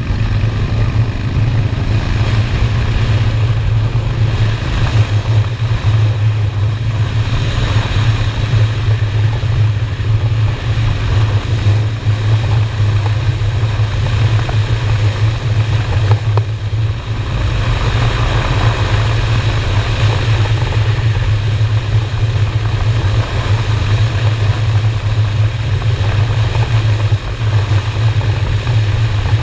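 V-twin cruiser motorcycle engine running steadily at road speed, heard with heavy wind rush on the helmet or bike-mounted camera. It eases off briefly about halfway through.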